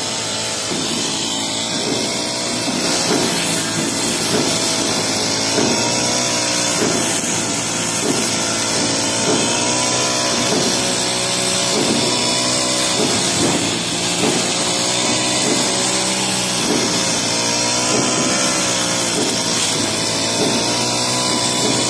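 Honda four-stroke brush cutter with a metal blade running steadily while cutting tall grass. The engine note wavers up and down in a regular rhythm as the blade works through the grass.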